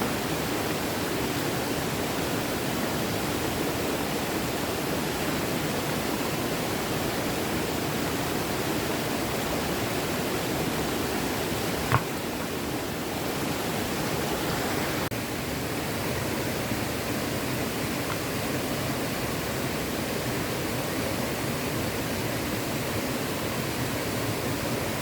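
Small stream flowing steadily, a constant rush of water, with a single sharp click about halfway through.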